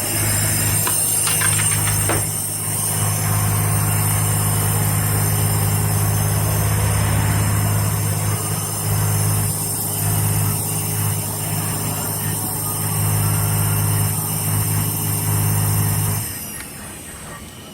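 Car wash machinery running: a steady low electric hum with a high whine above it, which winds down about 16 seconds in.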